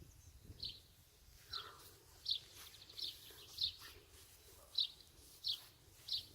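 A bird chirping over and over, short high calls about one every two-thirds of a second, over a faint low rumble of wind.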